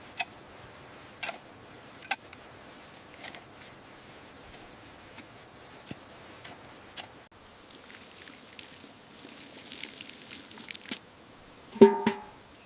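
Scattered sharp knocks and clicks at irregular intervals, with a short, loud pitched sound near the end.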